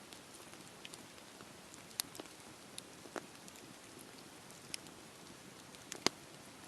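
Wood fire crackling in a fireplace: scattered sharp pops and snaps over a soft steady hiss, the loudest pop about six seconds in.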